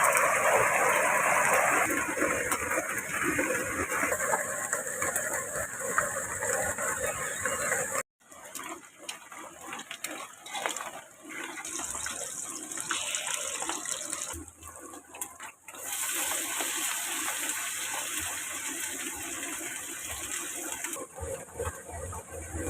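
Steady rushing of running water, cut off abruptly about 8 s in and resuming at a different level, with another short break near 15 s.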